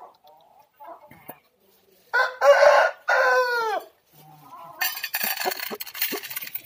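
An Aseel rooster crows once: a harsh call of about two seconds that falls in pitch at the end. About a second later comes a burst of scratchy rustling and clatter.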